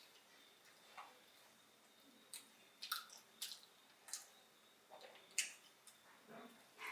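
Faint mouth sounds of someone chewing a sandwich: short wet clicks and smacks at irregular intervals.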